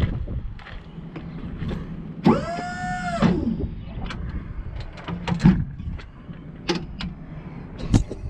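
Truck's power window motor whirring for about a second, rising in pitch as it starts and dropping as it stops, with scattered clicks and knocks over a low rumble.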